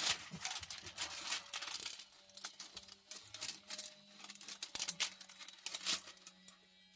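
Plastic-covered diamond painting canvas rustling and crinkling as it is handled, in quick irregular crackles that thin out near the end.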